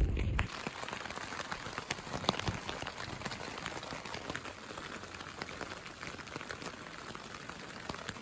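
Heavy rain pattering on a tent's fabric: a dense, steady hiss of drops with many sharp individual taps, after a brief low rumble in the first half second.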